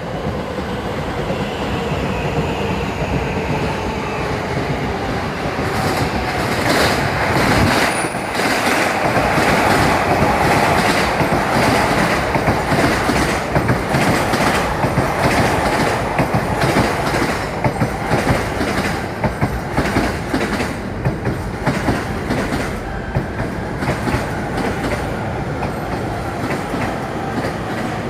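Tokaido Line electric train running into a station platform at speed. A steady rumble swells about six seconds in, with a long run of rapid wheel clacks over the rail joints that eases toward the end.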